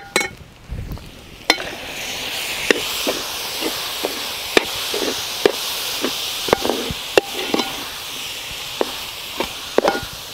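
Chopped tomatoes sizzling in hot oil with fried shallots and masala in a large metal pot. The sizzle swells about a second and a half in, and the perforated steel skimmer stirs and scrapes against the pot in repeated clinks.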